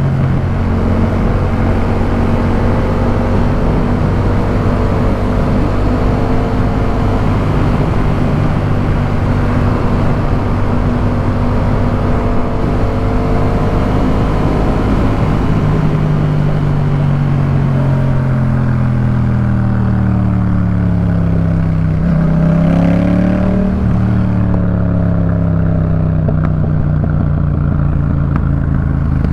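Yamaha MT-07's 689 cc parallel-twin engine through a Jeskap K4 full aftermarket exhaust, heard from the rider's seat while riding. The engine note holds steady for the first half, then falls as the bike eases off, rises briefly about three quarters of the way in, and falls again.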